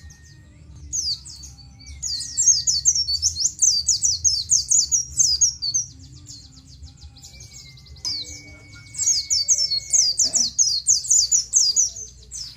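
Pleci (white-eye) singing: rapid, high twittering runs of 'ciet ciet' chirps, a short burst about a second in, then two long runs of about three seconds each, the second near the end. A faint low hum lies underneath.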